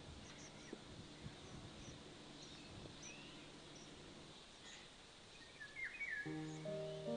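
Scattered faint bird chirps over quiet open-air background noise, with a low steady hum for the first few seconds. Music with held notes comes in about six seconds in.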